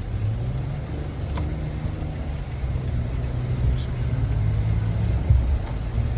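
Steady low rumble of a car's engine and tyres on a wet road, heard from inside the moving car, with a single thump about five seconds in.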